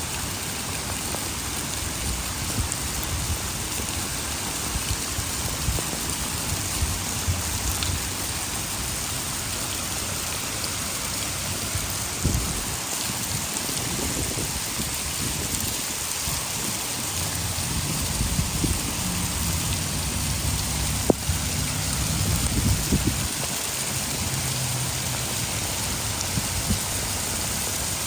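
Heavy rain falling steadily, a dense even hiss. Low rumbles come and go in the second half, and there is one sharp click about three-quarters of the way through.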